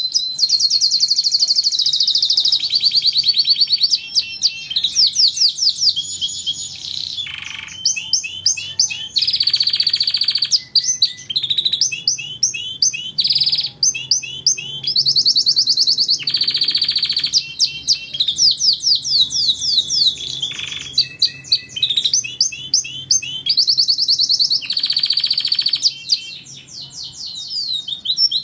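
Domestic canary singing a long, continuous song of rapid trills, fast rolls and repeated sweeping whistled notes, shifting phrase every second or two.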